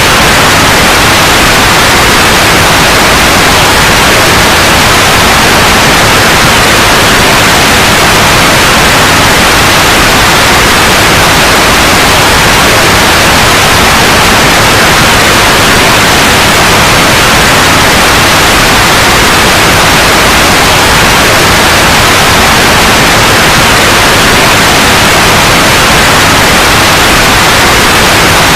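Loud, steady white noise: an even hiss that does not change.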